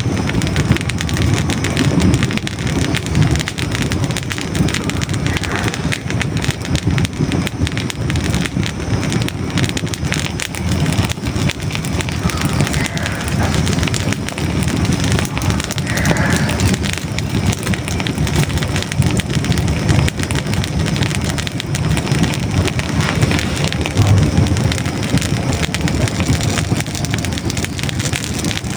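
Hardwood logs burning in a fireplace, crackling with dense rapid pops and snaps over a steady low rumble of the flames.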